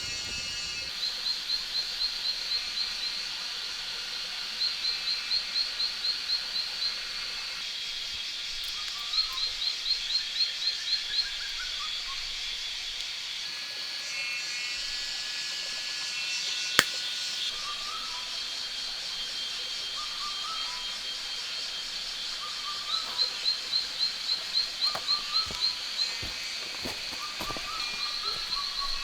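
Rainforest wildlife ambience: a steady high-pitched drone with four runs of rapid, evenly spaced chirps, scattered shorter lower calls, and a single sharp click about seventeen seconds in.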